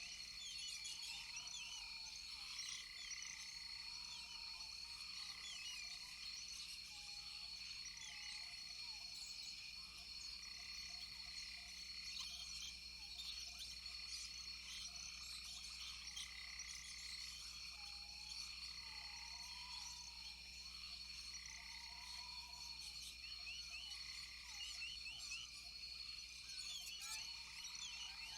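Rainforest chorus of frogs calling over a steady high-pitched insect drone, with short arching calls repeating every couple of seconds.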